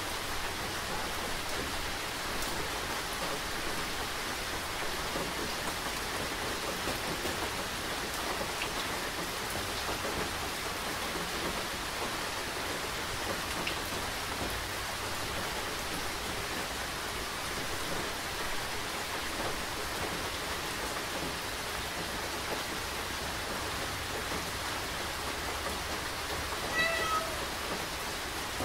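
Steady rain falling, an even hiss of drops throughout. Near the end a cat gives one short meow.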